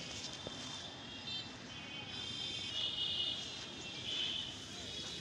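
Outdoor field ambience: a steady low hiss with high, rapidly pulsed chirping calls that grow louder in the middle and fade near the end.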